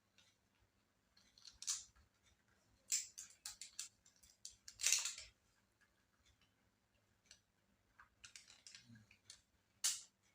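Small plastic and metal clicks and scrapes from laptop parts being handled and fitted: a single click, then a quick run of clicks, a half-second scrape, another run of clicks and a last sharp click.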